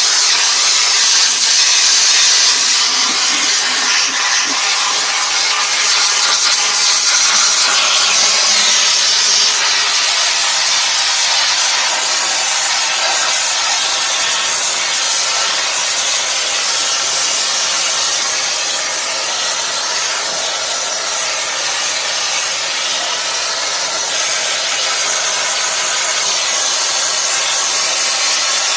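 Water spraying under pressure from a compressor-boosted washing hose: a steady loud hiss.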